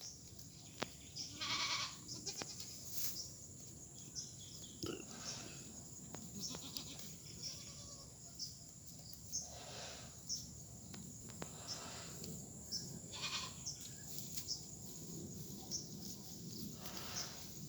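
Goats bleating: about five separate calls spread out over the stretch, with a few sharp clicks between them.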